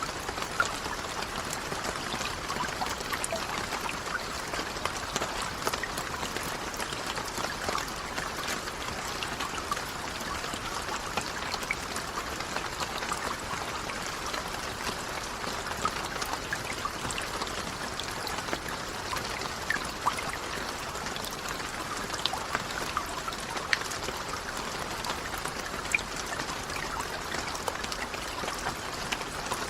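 Steady rain falling, a dense even patter with sharper single drops splashing now and then.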